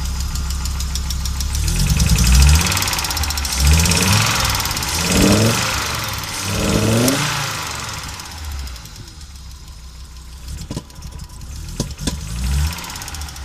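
Audi AAR inline-five petrol engine misfiring and running rough. It is revved up and let fall several times, then drops back to an unsteady idle with two sharp pops near the end. The misfiring began after the engine replaced the original NG unit, and its cause is not known.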